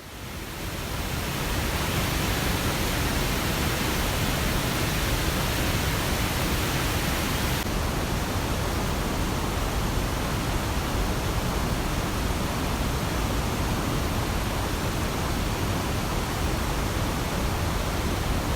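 Steady rushing of water outdoors, an even hiss with no rhythm, that shifts slightly in its high end about eight seconds in.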